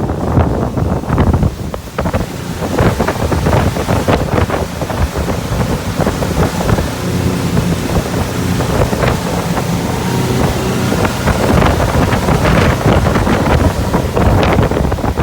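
2012 Hurricane 2400 deck boat under way on a water test, its engine running with a steady drone under heavy wind buffeting on the microphone.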